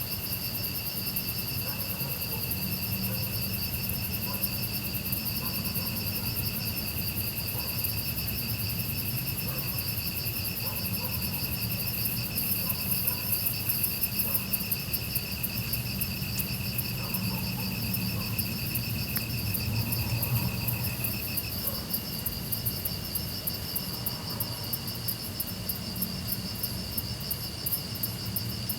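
A chorus of grass insects chirping steadily, several overlapping pulsing trills at different pitches. The middle-pitched trill stops about three-quarters of the way through.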